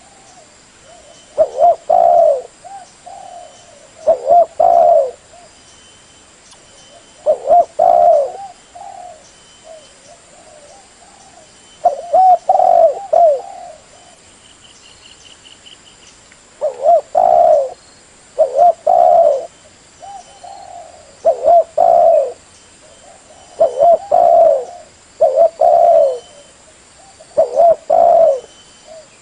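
Spotted dove cooing: repeated multi-note coo phrases, one every two to four seconds, with softer coos between them.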